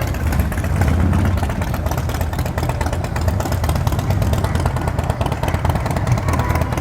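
Motorcycle engine running with a steady low rumble of rapid firing pulses.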